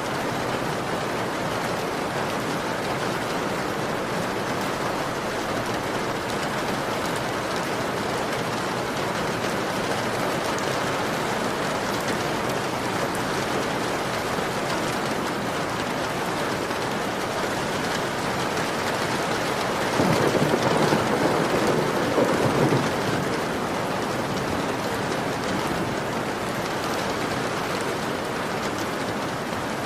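Heavy rain on a window, a steady even patter. About two-thirds of the way through, a louder, deeper rush lasts about three seconds, then fades back into the rain.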